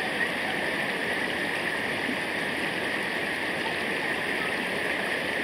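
Stream water rushing steadily over rocks, with a constant high-pitched band above the rush.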